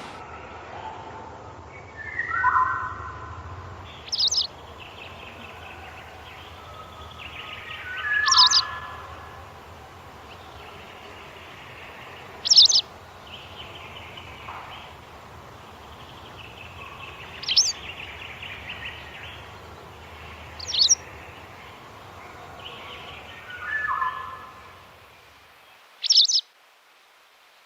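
Wild birds singing: a short, sharp, high call repeats six times, a few seconds apart, over lower calls and a faint chorus of other birds.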